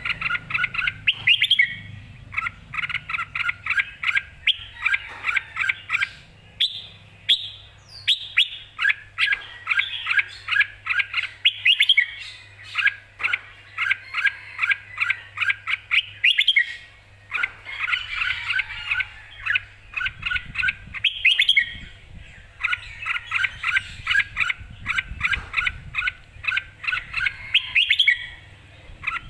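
Red-whiskered bulbul singing in lively, full-voiced form: quick phrases of short, clear whistled notes, repeated over and over with brief pauses between them.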